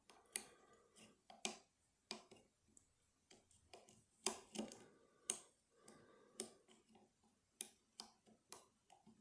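Faint, irregular small metallic clicks of lock picks working the levers inside a lever challenge lock, as it is being picked back to the locked position.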